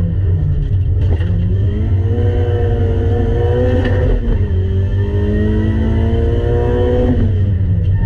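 Honda Civic engine heard from inside the cabin, accelerating hard. The revs climb, dip briefly about four seconds in as the driver shifts up, climb again, then fall near the end as the driver lifts off. A heavy low drone runs under it.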